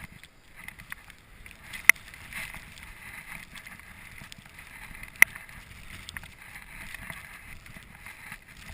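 Footsteps trudging through deep snow, with wind noise on the microphone, and two sharp clicks about two seconds and about five seconds in.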